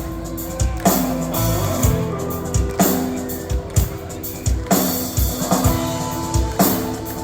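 Rock band playing live: electric guitars holding notes over a drum kit, with a heavy drum hit about once a second.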